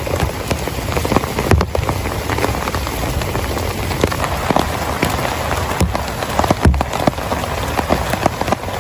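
Heavy rain falling, with many separate drops striking close by in a dense patter. A few heavier thuds come about a second and a half in and again near the end.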